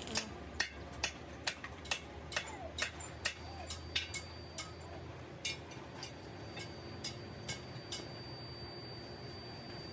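Evenly spaced sharp clicks, about two a second, growing fainter after about six seconds, over a steady low machine hum and a thin high whine.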